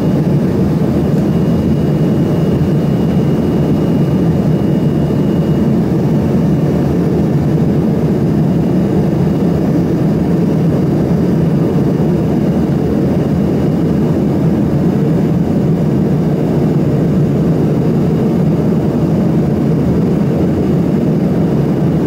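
Steady cabin noise of an Embraer ERJ-145 regional jet in flight: an even, low roar of its two rear-mounted Rolls-Royce AE 3007 turbofans and the airflow, with a faint high whine that stops about six seconds in.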